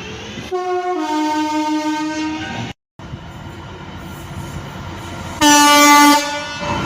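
Passenger train horns: a two-tone horn steps from a high note to a lower one, held for about two seconds, then after a sudden cut comes train running noise and a second, louder horn blast of just under a second near the end.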